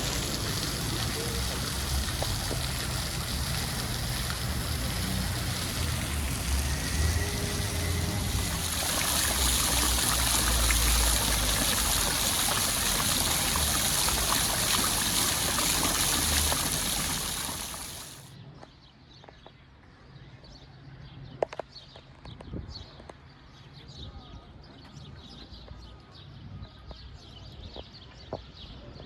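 A steady, loud rush of running water that cuts off abruptly about eighteen seconds in, leaving a much quieter background with scattered clicks and taps.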